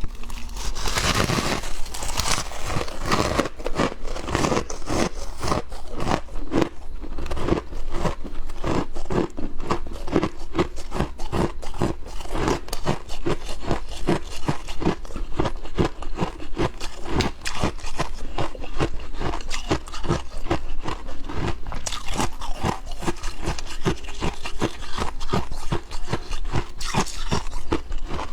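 Frost being scraped, crunching in quick repeated strokes about two a second.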